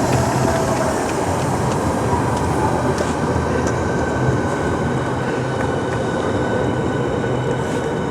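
Docklands Light Railway train running at a steady speed: a continuous rumble with a faint whine that fades about a second in.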